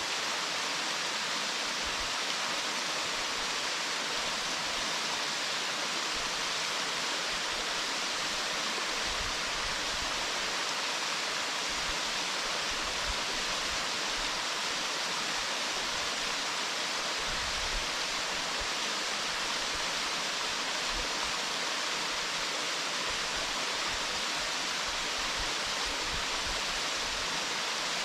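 Waterfall, a steady even rush of falling water, with light wind buffeting on the microphone.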